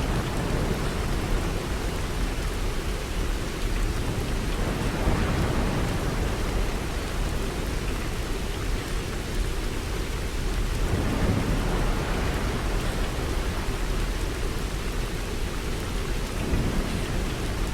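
Steady rain falling, with low rumbles of thunder swelling up three times.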